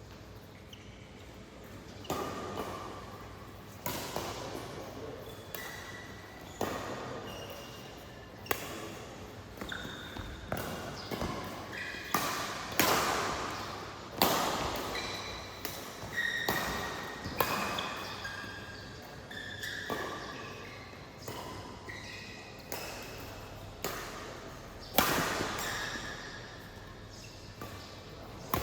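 A badminton rally: sharp racket-on-shuttlecock hits every second or two, echoing in a hall, with short high shoe squeaks on the court floor between shots.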